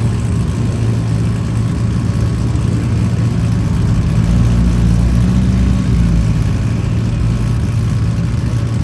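A car engine running steadily, its note rising and getting a little louder for a couple of seconds midway.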